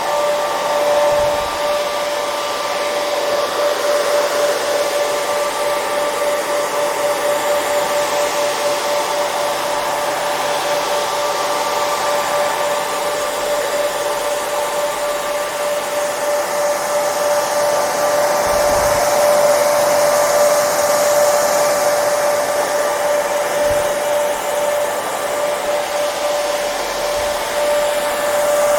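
Hair dryer running steadily: a constant blowing noise with a steady motor whine.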